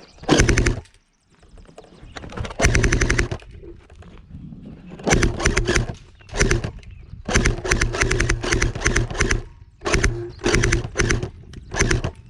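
Airsoft gun firing on full auto in a run of short bursts, about eight of them, each a fast, even rattle of shots with a steady whine underneath, separated by brief pauses.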